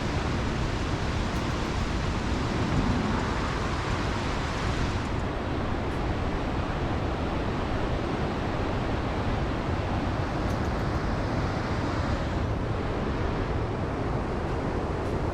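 Steady rushing of a mountain river's flowing water, an even, unbroken noise.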